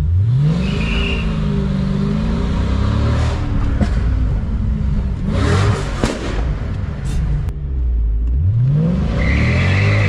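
Mercedes CL 63 AMG's V8 accelerating hard twice, heard from inside the cabin: the revs climb quickly right at the start and again about 8.5 seconds in. A short burst of rough noise comes between the two pulls.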